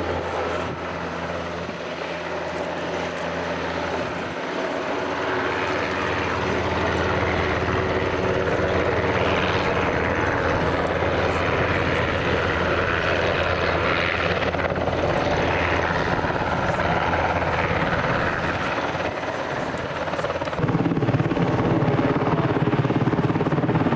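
A helicopter flying a display, its rotor and turbines sounding steadily and swelling; about twenty seconds in the sound changes and grows louder.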